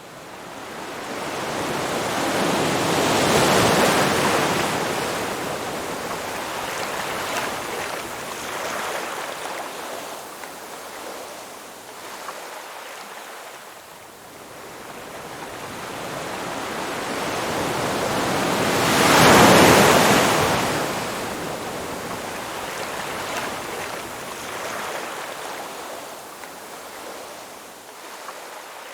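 Ocean waves breaking on a shore: two swells of surf, one about three to four seconds in and a louder one about twenty seconds in, each followed by a long wash that fades slowly.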